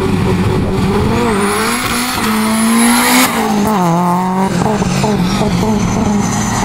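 A drag-racing sedan's engine revving at the start line, then launching and accelerating hard down the strip. The engine note climbs and drops suddenly at a gear change about three seconds in, then runs on at a lower pitch.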